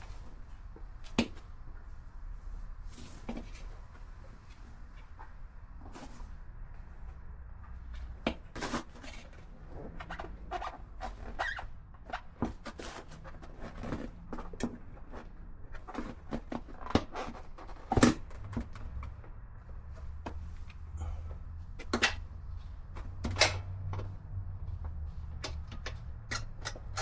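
Scattered clunks, clicks and knocks of a motorcycle seat and its fasteners being handled and fitted back on, with the sharpest knock about 18 seconds in.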